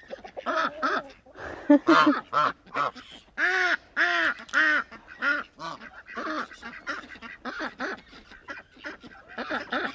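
Domestic geese honking and ducks quacking: a steady stream of short calls, several a second, the loudest a few drawn-out honks near the middle.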